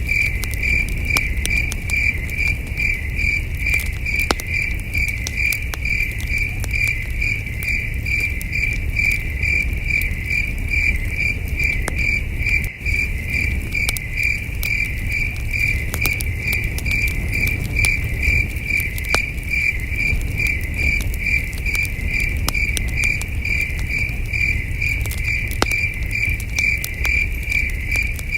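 Crickets chirping in a steady, even rhythm, about two chirps a second, over a campfire crackling with scattered pops and a low, steady rumble.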